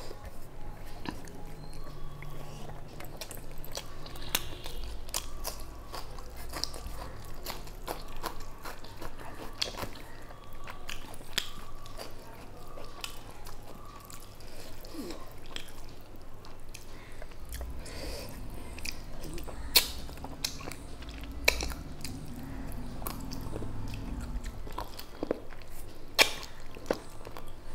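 Close-up chewing of rice and fried fish, with many small wet mouth clicks and a few sharper clicks near the end.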